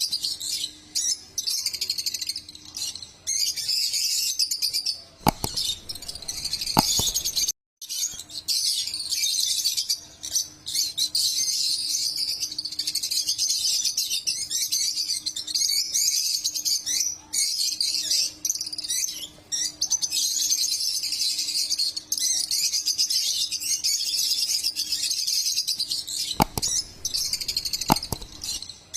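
A group of lovebirds chirping and chattering constantly in high-pitched calls. A few knocks come through twice, and the sound drops out for a moment near the first of them.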